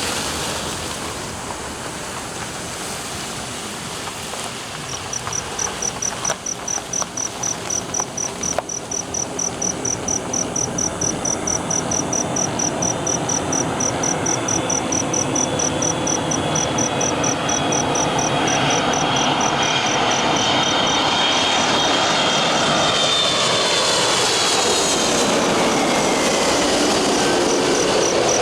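Airbus A330-300 jet airliner on landing approach: its engine noise grows steadily louder, then a whine falls in pitch as it passes. Insects chirp in a fast, steady high pulse throughout.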